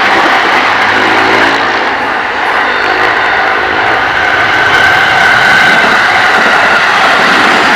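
Electric train passing close by at speed: a loud, steady rush of wheels and traction motors.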